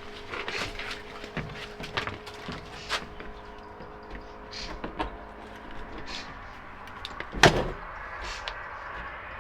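Scattered light clicks and taps from hands working around a pickup truck's door while fitting new rubber weather stripping, with one sharp knock about seven and a half seconds in. A faint steady hum runs underneath.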